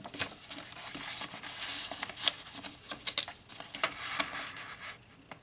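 Paper rustling and crinkling in a run of short, irregular rustles and light clicks as the pages and tucked paper ephemera of a handmade junk journal are handled.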